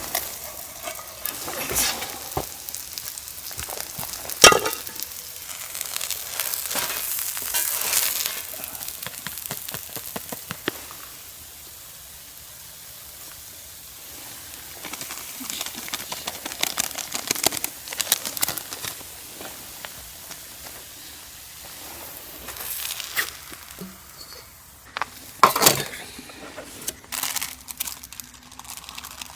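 Food sizzling in a pan, with scattered sharp clicks and knocks, the loudest about four seconds in and another near the end.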